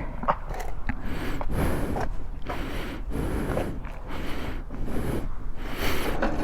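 A person breathing hard and out of breath, with repeated noisy breaths, mixed with a few clicks and handling noises.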